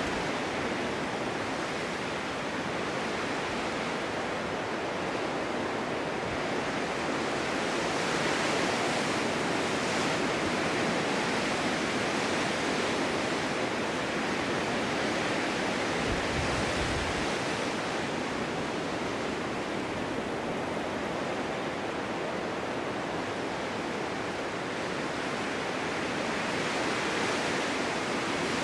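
Snowstorm wind blowing steadily, swelling and easing slowly, with a brief low rumble about halfway through.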